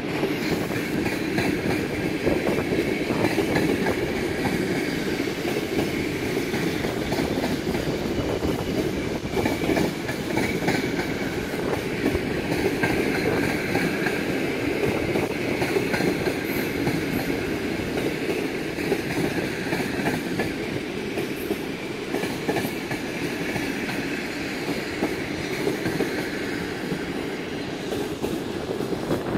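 A rake of passenger coaches rolling slowly along the station track during shunting: a steady rumble of wheels on rail, with clicks as the wheels cross the rail joints.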